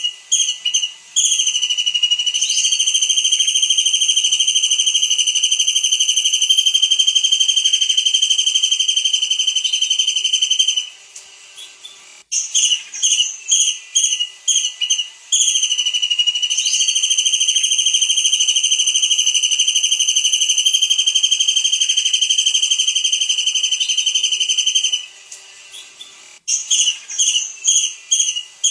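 Kingfisher calling: runs of short, sharp, high falling notes that break into a long, even, high trill held for about eight seconds. The sequence plays twice, ending with another run of short notes.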